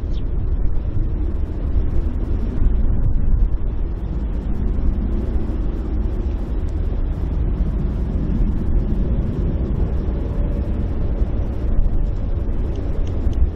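Boeing 767 airliner's jet engines, a steady low rumble.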